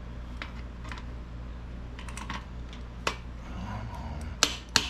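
Scattered light clicks and taps of metal parts and hand tools being handled, with a few sharper clacks near the end, over a steady low hum.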